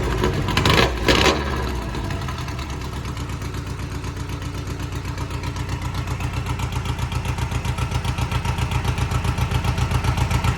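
1970 Volkswagen Beetle's air-cooled flat-four engine running cold just after starting: a couple of brief revs in the first second and a half, then a steady idle with even exhaust pulses that slowly get louder.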